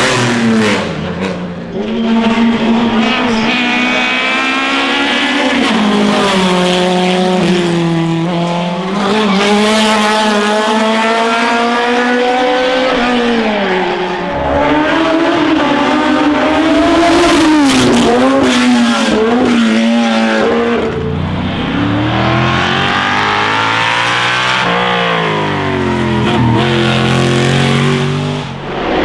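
Classic racing car engines at full throttle on a hillclimb, the pitch rising and then dropping back at each upshift. About two-thirds of the way through, a deeper-sounding engine takes over.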